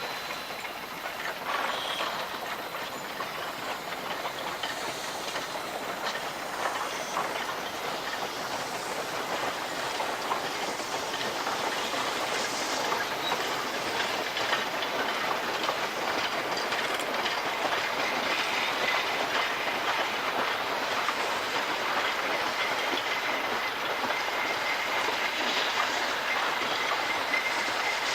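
Narrow-gauge mixed train rolling by, its steel wheels clicking over rail joints, growing slowly louder, with a faint wheel squeal in the second half.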